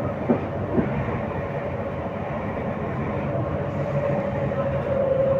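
RER B suburban train running along the track, with a couple of sharp rail-joint clacks in the first second over a steady rumble and a held motor whine that grows a little louder near the end.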